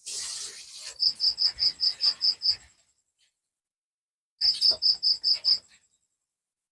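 A cricket chirping in two rapid trains of high, evenly spaced notes, about five a second: eight notes, then after a pause of about two seconds, six more. A short hiss of noise comes at the very start.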